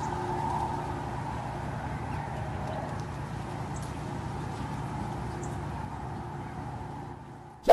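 An eerie, steady outdoor drone, the so-called strange sky sound, heard as a low hum with a faint wavering higher tone above it and a few faint chirps. A short loud burst cuts in right at the end.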